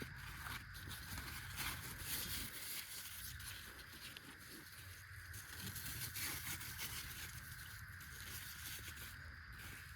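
Outdoor rural ambience: a steady high hum with a low rumble underneath and scattered faint rustling.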